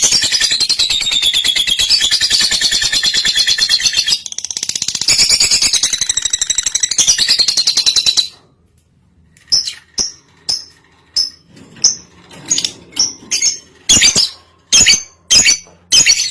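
Lovebird in breeding condition chattering in a long, very fast, high-pitched rattling stream that stops abruptly about eight seconds in. This is followed by a string of short, sharp separate chirps.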